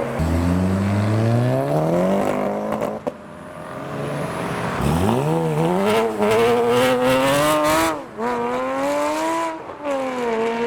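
Porsche Cayman GT4's engine accelerating hard. The revs climb steeply, drop off about three seconds in, then climb again with a wavering pitch from about five seconds in.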